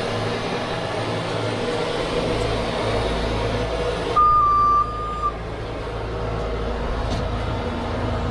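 Heavy truck's diesel engine running steadily, with a single high electronic beep lasting about a second near the middle.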